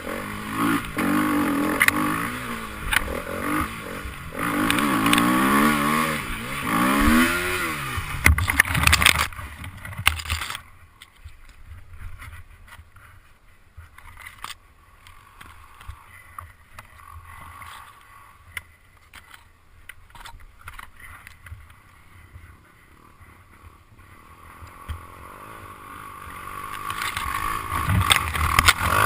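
Enduro motorcycle engine revving up and down repeatedly for about the first ten seconds, then dropping away suddenly. After a quieter stretch with scattered clicks, another motorcycle engine approaches and grows louder near the end.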